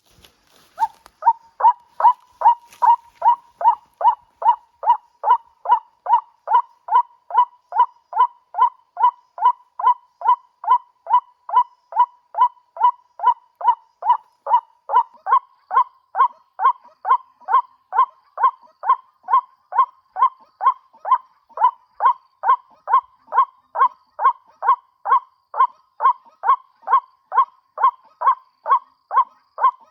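White-breasted waterhen (ruak-ruak) call, one short note repeated over and over at about two a second, very evenly and without pause, the lure call used to draw the birds into snares.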